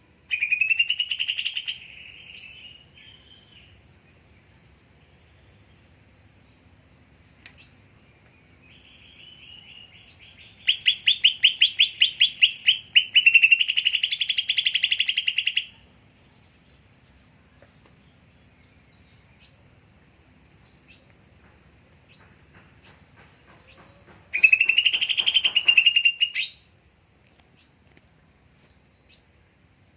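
Cucak ijo (greater green leafbird) song in loud bursts: a short phrase near the start, a long one midway with a fast run of repeated notes, and another near the end. A thin steady high tone runs underneath. This is a lure call, played to draw in and provoke leafbirds.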